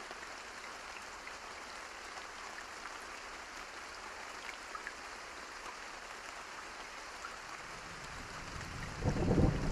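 Steady rain falling, with scattered drops ticking. Near the end, thunder rumbles in, swelling and then turning loud and deep.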